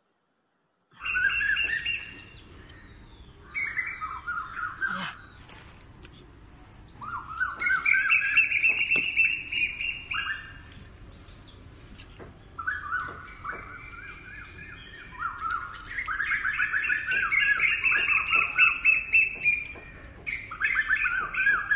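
Wild birds chirping in quick runs of repeated notes, one run after another, starting about a second in. Now and then there is a faint rustle and snap of betel leaves being picked.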